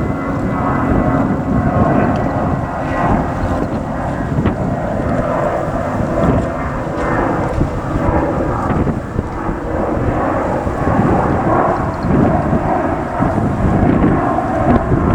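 Jet airliner engines at high power, a loud rough rumble with a faint whine in the first few seconds that fades.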